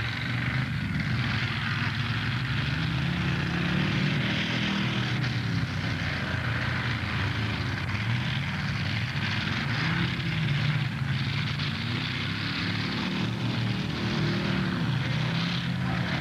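Several demolition derby car engines running and revving together, their pitch rising and falling.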